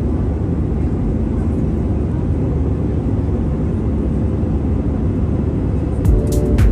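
Strong wind buffeting the microphone: a steady low rumble. Music with a sharp beat comes in near the end.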